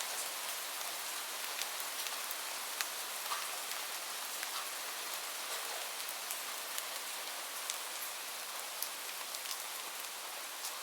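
Steady rain hiss with scattered sharp ticks and pops of a crackling wood fire.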